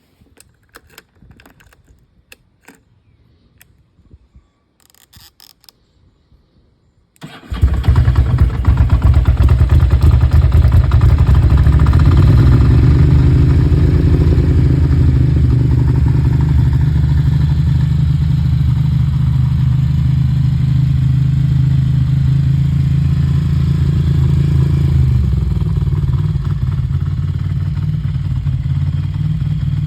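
Ducati Monster 750's air-cooled V-twin on a cold start: a few faint clicks, then about seven seconds in the engine fires at once and runs at a steady fast idle, which drops a little lower near the end as it warms.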